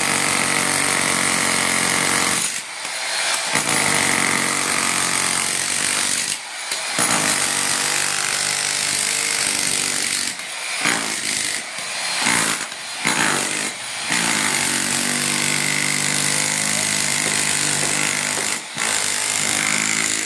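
Handheld electric power tool running in long bursts under load, with short pauses between them, its motor pitch dipping and recovering as it works.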